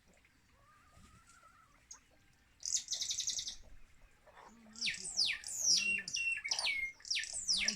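Wild birds calling: a fast, high trill about three seconds in, then a run of loud, sharp calls, each sliding steeply down in pitch. Fainter low calls sound underneath.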